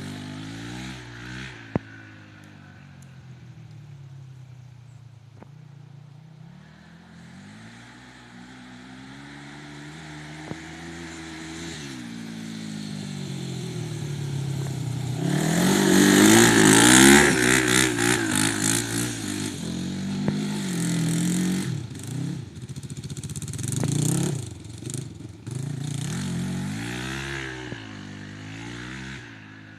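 Kawasaki GPZ 500 parallel-twin motorcycle engine in a quad, revving up and down repeatedly as the quad is ridden. It grows louder to a peak about halfway through as it comes close, then swells and drops again.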